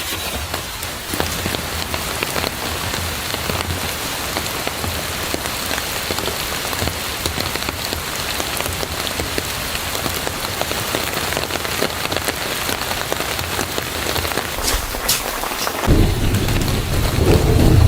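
Rain pattering steadily, many fine drops hitting a surface. A low rumble joins in about two seconds before the end.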